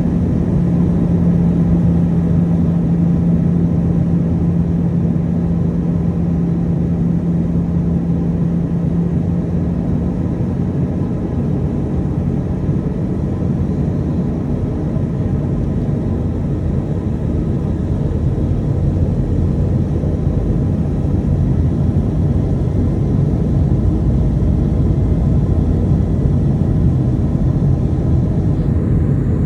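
Airbus A320 cabin noise during descent: a steady rush of airflow with engine drone, and a strong low hum that eases off about twelve seconds in.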